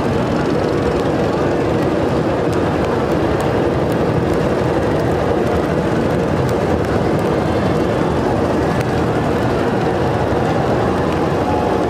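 Steady engine drone of a motorboat, running evenly with no change in speed.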